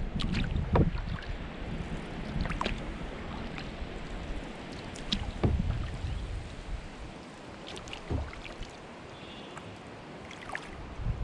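Sea kayak being paddled into a headwind: the paddle blades dip and splash, and water drips and slaps at irregular moments. Wind rumbles on the microphone, heavier in the first half and easing after about six seconds.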